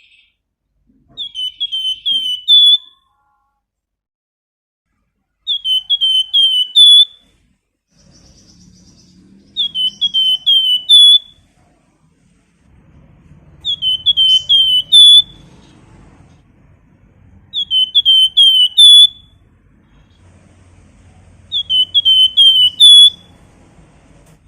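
Flamboyan songbird whistling a repeated phrase six times, about every four seconds. Each phrase is a quick run of four or five loud, clear whistles that drop in pitch, with the last note higher.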